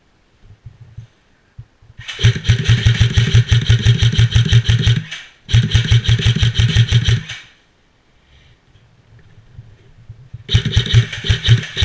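Airsoft electric gun firing full-auto, its gearbox cycling in rapid, even strokes: a burst of about three seconds, a shorter burst right after, and another starting near the end.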